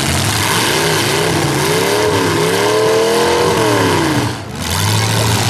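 V8 demolition derby car engines running over a steady noisy wash, with one engine revving up and down from about a second in until just after four seconds, when the loudness briefly dips.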